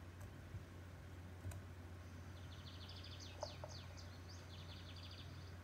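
Lined seedeater song played back from a recording: about three seconds of high notes, opening with a fast run of rapidly repeated notes, then a few quick down-slurred notes, and ending in another fast run. A faint steady low hum lies under it.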